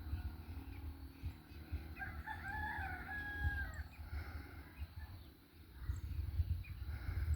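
A rooster crowing once: a drawn-out call that rises and ends on a held note, over a low rumble.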